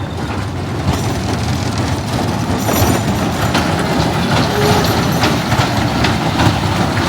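A fairground ride running: a steady mechanical rumble with clattering clicks, growing louder about a second in.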